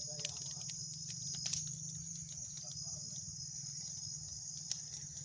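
Crickets chirring steadily, with sharp crackles and pops scattered throughout from dry grass and brush burning in a newly lit bonfire.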